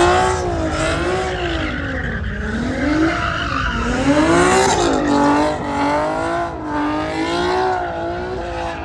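Truck engine revving hard, its pitch rising and falling over and over without settling.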